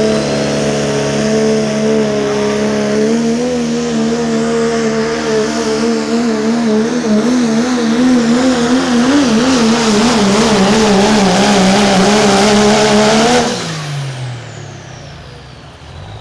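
Limited Pro diesel pulling truck, a Dodge, at full throttle under load down the pulling track, its engine note held high and warbling. About thirteen and a half seconds in the engine cuts off, and a high turbo whine slides down and fades.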